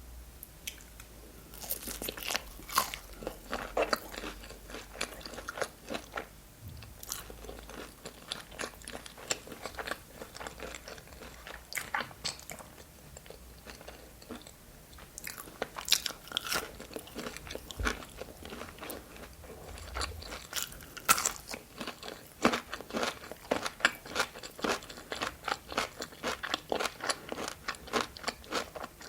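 A person eating close to the microphone: crisp bites and crunchy chewing, a dense run of small irregular crackles.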